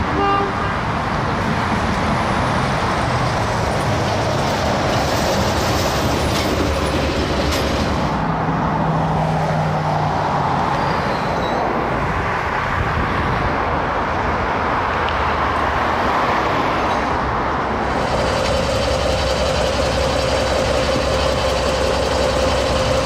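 Diesel-hauled passenger train moving past close by: a steady rumble of wheels on the rails and the DJ-class diesel-electric locomotive's engine. Over the last few seconds a steady engine drone comes up as the locomotive is close.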